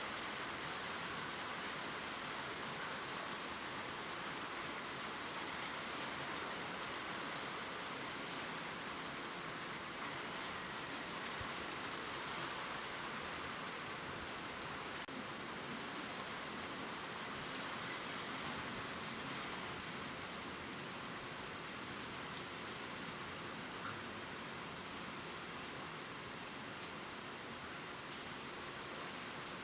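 Gentle rain falling on leaves: a steady hiss with fine drops ticking.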